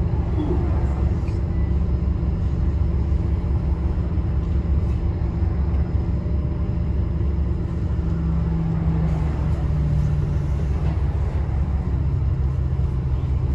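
A running engine with a steady low rumble; its hum drops a little in pitch about two-thirds of the way through.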